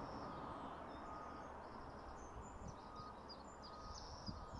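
Small songbirds chirping and trilling, getting busier after about halfway, over faint steady background noise.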